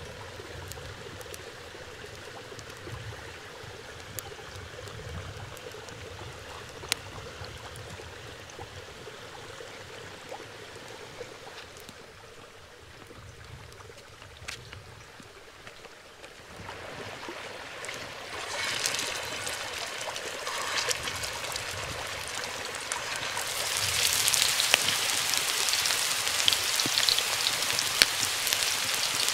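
Food cooking in a pan: a soft trickling, bubbling sound with a few light clicks, then a sizzle that comes in a little past halfway and swells into a steady, loud frying sizzle for the last several seconds.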